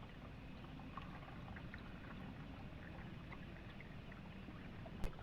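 Faint, steady flowing water with scattered small drips and ticks, and one sharp knock just before the end.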